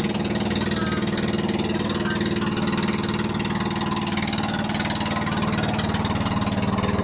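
Boat engine running steadily at an even, unchanging speed, with a regular firing pulse.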